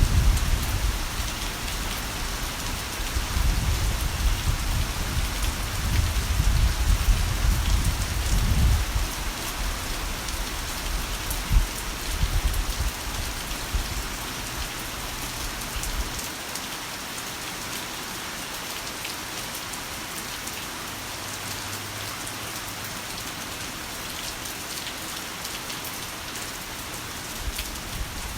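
Heavy rain pouring steadily, with rolling thunder rumbling low under it through the first half. The thunder gives one sharp crack before it dies away, about halfway through.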